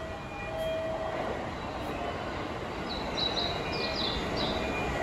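Steady running noise of a train on the tracks at a station platform, building slightly after about a second. A few short, quick, downward-sliding bird chirps come in about three to four and a half seconds in.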